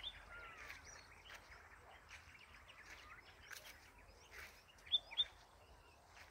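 Birds chirping and calling over faint rural background noise, with two short louder sounds about five seconds in.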